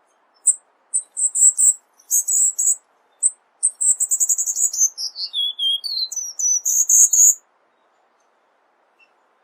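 Cuban bullfinch singing: a burst of high, rapid chirps and fast trills, with a run of notes dropping in pitch midway, ending about seven seconds in.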